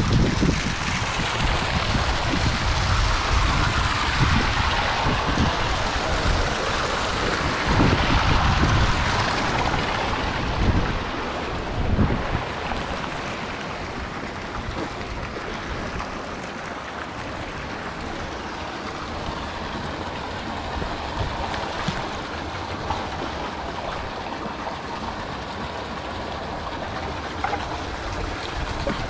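Wind blowing outdoors, gusting hard on the microphone with low rumbling buffets over the first twelve seconds, then easing to a steadier rushing.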